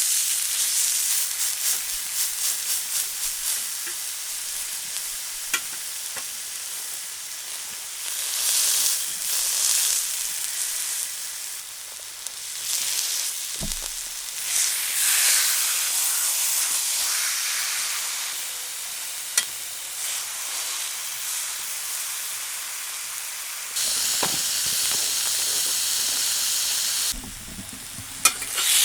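Beef sizzling as it sears in a hot pan. The hiss swells and fades, with a few sharp pops.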